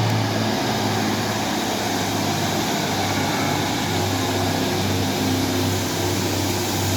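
Diesel train engine running steadily at the platform, a constant low hum over engine noise.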